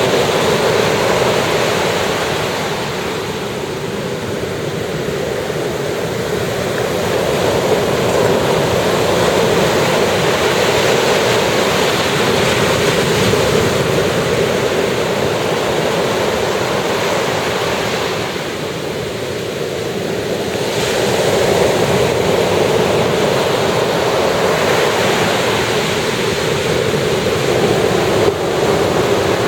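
Sea surf breaking and washing onto a beach: a steady rush of water that eases off twice, about three seconds in and again about eighteen seconds in, before swelling back.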